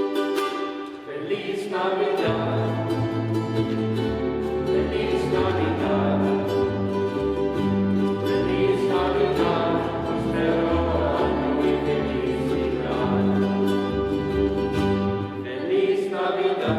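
Christmas music: voices singing over a plucked-string accompaniment, with a bass line coming in about two seconds in.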